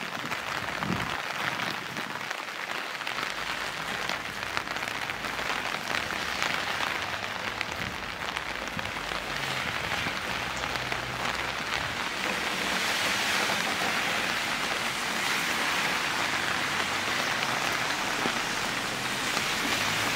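Steady rain falling and pattering on surfaces, a dense hiss of fine drops that grows slightly louder about halfway through.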